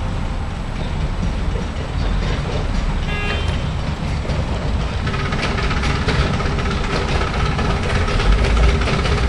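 Miniature railway train running on its track with a steady rumble and rail clatter, a brief high toot about three seconds in, and a steady whine joining from about five seconds as the clatter grows.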